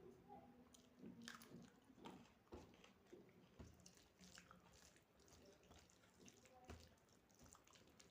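A person eating close to the microphone: quiet chewing and biting with irregular small mouth clicks and crunches.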